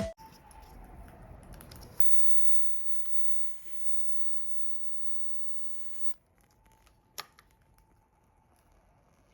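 Fire crackling faintly, with scattered small pops; one sharp pop about two seconds in and a louder one about seven seconds in.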